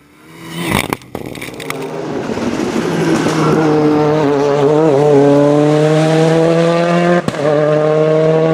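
Rally car engine at high revs, growing louder over the first few seconds, then holding on with its pitch climbing steadily under acceleration. There is a sharp crack about seven seconds in.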